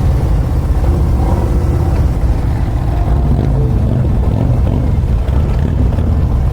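Harley-Davidson motorcycle engine running steadily under a loud, even low rumble.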